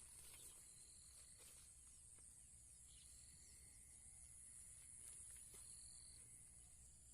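Faint, steady high-pitched chirring of crickets and other insects, with a thinner, lower insect trill that drops out and comes back a few times.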